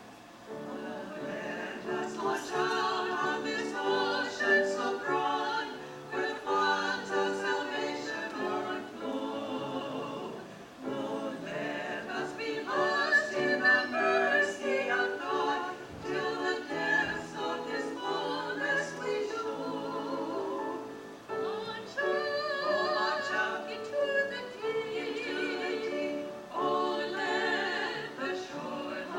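A choir singing in sustained phrases with vibrato on the held notes and brief breaths between lines.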